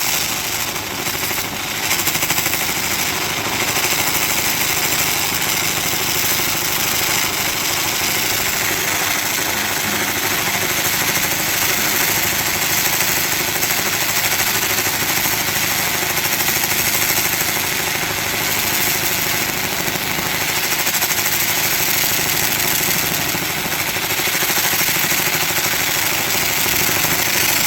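Handheld laser rust-removal cleaner running at about 95% power, ablating rust and old paint off a steel welding table: a loud, steady hiss with a fine rapid crackle.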